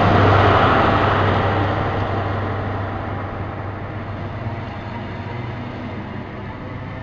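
InterCity 125 (HST) power car 43151 passes close by as it pulls into the platform. Its diesel engine's steady low drone is loudest at first and fades over the next few seconds, while the Mark 3 coaches rolling past keep up a steady rumble of wheels on rail.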